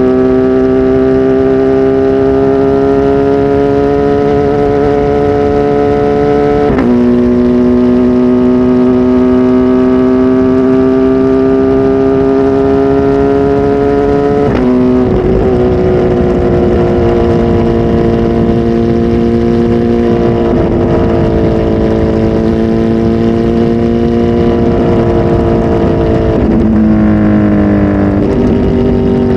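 Kawasaki Z H2 SE's supercharged inline-four running through a full aftermarket exhaust, with a flash tune. The engine note climbs slowly under light acceleration and drops sharply at gear changes about 7 and 15 seconds in, then holds fairly steady.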